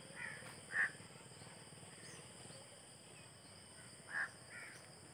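A bird calling: two short calls in quick succession, then two more near the end.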